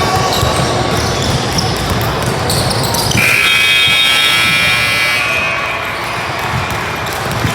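Gymnasium scoreboard buzzer sounding one steady tone for about two seconds, starting about three seconds in, over basketball bounces and crowd noise in a large hall.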